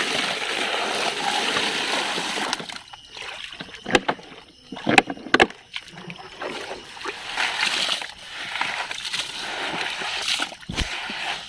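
Water splashing and sloshing as a plastic toy truck is washed, in two stretches, with a few sharp plastic knocks in between.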